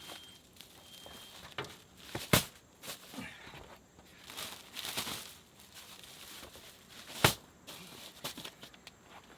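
Handling noises: scattered knocks and rustling, with a sharp knock about two seconds in and a louder one about seven seconds in.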